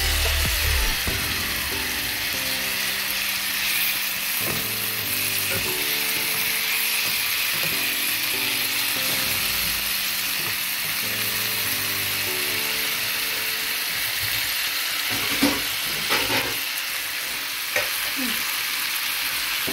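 Chopped tomatoes, onions and curry leaves sizzling as they fry in oil in a metal pan, with a spatula stirring through them. A few short knocks or scrapes from the spatula against the pan come near the end, over soft background music.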